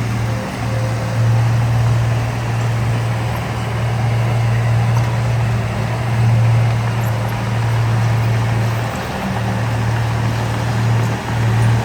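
Heavy earthmoving machine's diesel engine running, a steady low drone; near the end it wavers in quick pulses.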